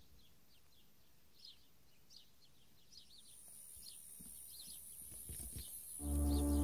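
Faint birdsong: short high chirps repeating over a quiet outdoor background. Near the end, loud background music with long held tones cuts in.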